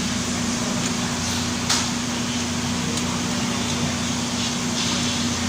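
Steady hum and hiss with a constant low drone, like a room fan or air conditioner running. A single sharp click comes nearly two seconds in.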